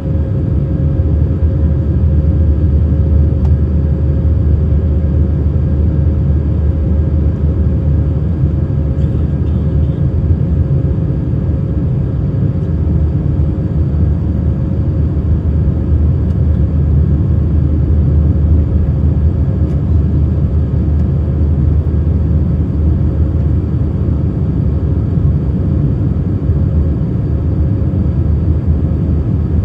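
Airbus A319 jet engines and airflow heard from inside the passenger cabin: a steady, loud, low rumble with a constant tone running through it.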